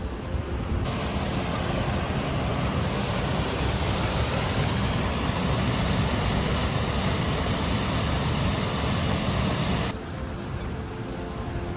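Waterfall rushing steadily. A louder stretch of the rushing starts abruptly about a second in and cuts off abruptly near the end, leaving a quieter rush.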